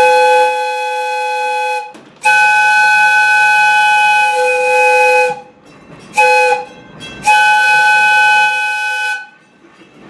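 Steam locomotive chime whistle of Valley Railroad 2-8-2 Mikado #40 blowing a chord in two long blasts, one short and one long: the standard grade-crossing signal.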